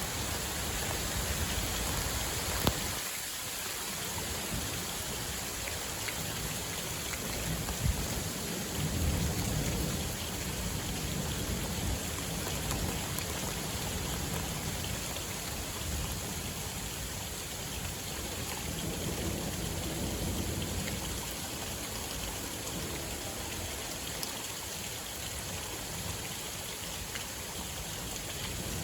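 Steady rain falling during a thunderstorm, with low rumbles of distant thunder swelling twice, about a third of the way in and again past the middle, and a couple of sharp ticks of drops.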